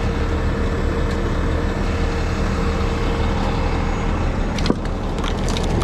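Heavy rotator wrecker truck's diesel engine running steadily, with a sharp knock and some clicking near the end.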